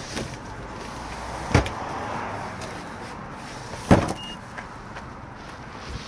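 Two sharp knocks about two seconds apart, the second louder, over a steady low rumble.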